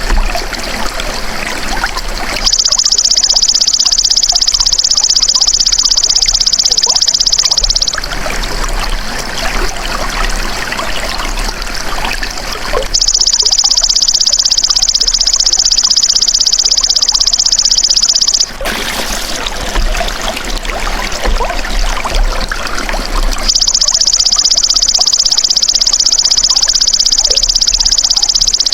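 Belalang emas ("golden grasshopper") singing a high, rapidly pulsed buzzing trill in three long bursts of about five seconds each. Between and under the bursts, a steady trickle of running water.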